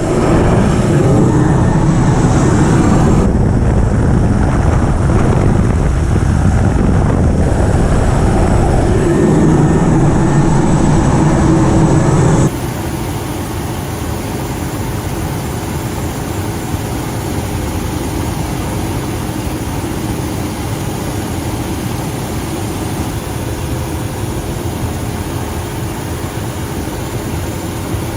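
Helicopter rotor and engine running loud over wind noise, until an abrupt cut about twelve seconds in to a quieter, steady mechanical hum.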